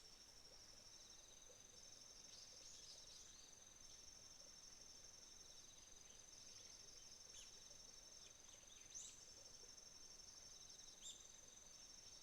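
Faint chorus of autumn insects trilling steadily at a high pitch, a second, lower trill coming and going. A few short high bird chirps cut in, the loudest about nine seconds in and another near the end.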